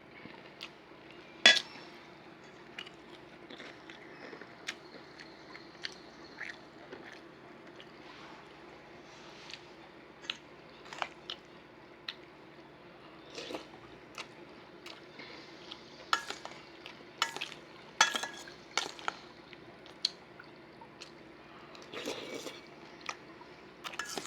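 Close-up eating of Frosted Flakes cereal: crunching, wet chewing and slurping, with a spoon clicking and scraping against the container now and then. The sharpest click comes about a second and a half in, with clusters of clicks and mouth sounds again in the second half.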